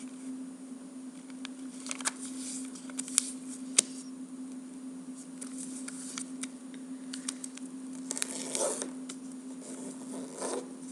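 A sheet of origami paper being folded and creased by hand: soft rustling with scattered crisp clicks, two sharp ones about three and four seconds in, and a burst of rustling near the end.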